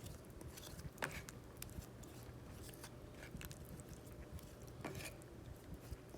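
Faint handling noises: a few light clicks, one about a second in and one near five seconds, with small scattered ticks over a low steady hum.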